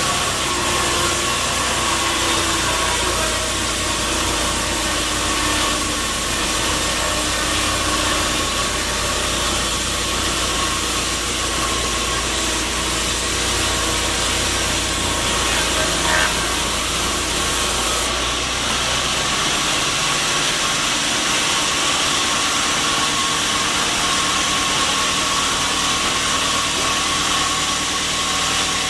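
Sawmill machinery running steadily: a constant mechanical din with a thin steady whine in it. A deep rumble underneath stops about two-thirds of the way through.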